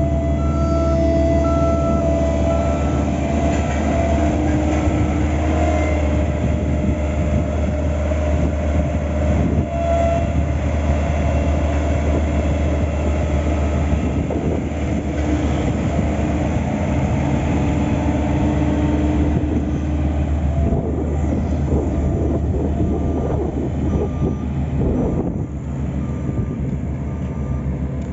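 Diesel engines of heavy road-paving machinery running steadily, with a reversing alarm beeping at the start and again near the end.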